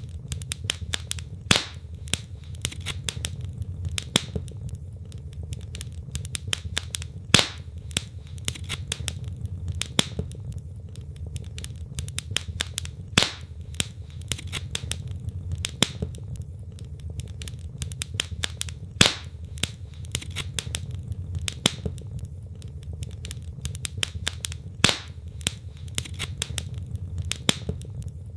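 Wood logs burning in a fireplace: a steady stream of sharp crackles and snaps over a low rumble of flames, with a louder pop about every six seconds.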